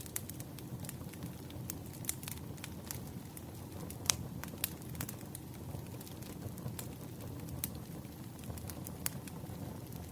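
Wood fire crackling: a steady low rumble of burning logs with frequent sharp pops and snaps, the loudest about four seconds in.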